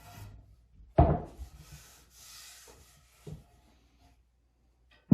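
Pieces of wood being handled: a sharp wooden knock about a second in, then a dry rubbing hiss and a smaller knock, before it goes still near the end.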